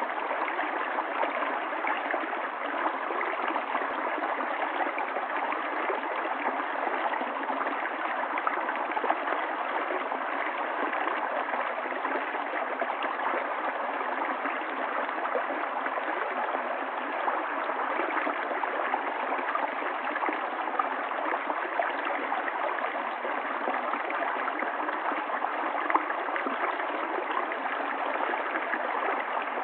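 Stream water running steadily, an even rushing noise dotted with brief louder splashes.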